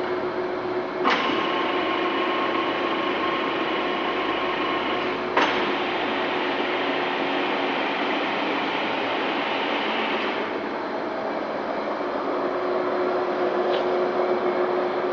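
TOS Kurim FA5B universal milling machine running with a steady mechanical hum and several steady tones. Two sharp clacks come about a second and about five seconds in, and the tones shift about ten seconds in.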